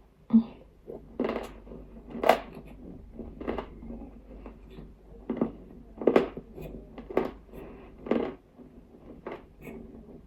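Nzu, dry edible clay chalk, being bitten and chewed, with about ten sharp, brittle crunches of varying loudness, roughly one a second.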